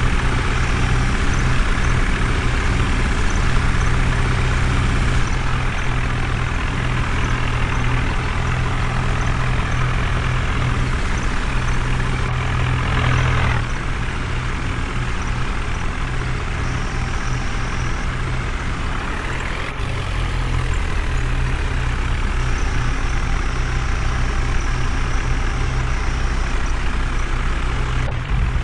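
A vehicle engine running steadily with a low hum. It drops a little about 13 seconds in and picks up again about 20 seconds in.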